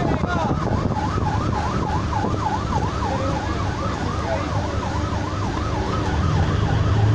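An electronic siren sounding in a fast warble, its pitch rising and falling about three times a second without a break, over a steady low rumble.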